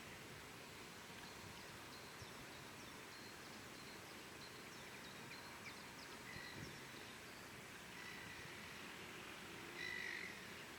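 Faint steady hiss with scattered faint bird chirps and short whistled notes, the loudest one near the end.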